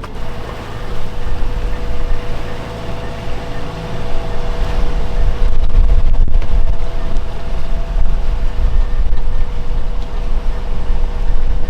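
A boat's engine running steadily under way, a constant drone with a low rumble of wind and water beneath it, growing louder about four seconds in.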